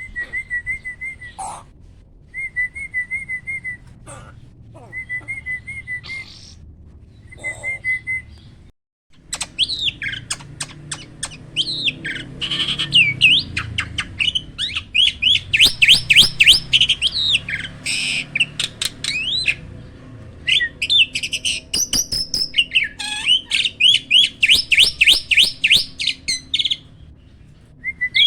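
Starling (jalak) song. First come four short trilled phrases about two seconds apart. After a brief cut, a dense run follows: loud whistles, fast repeated chattering notes and sharp clicks.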